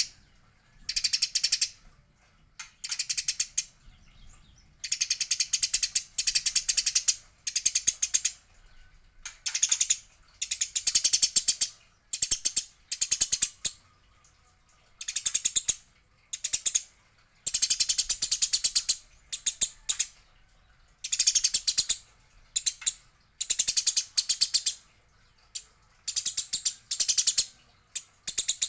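Eurasian tree sparrows chattering in quick bursts of rapid, harsh chirps, each burst about a second long with short gaps between. This is the excited chatter of sparrows squabbling.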